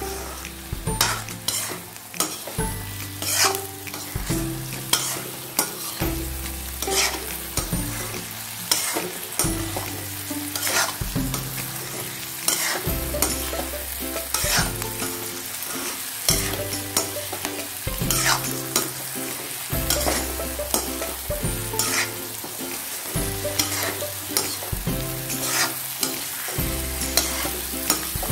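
Spatula stirring and scraping stuffed karela, potatoes and green chillies in a frying pan, the oil sizzling as the vegetables are roasted over a high flame, with irregular clicks and scrapes of the spatula against the pan.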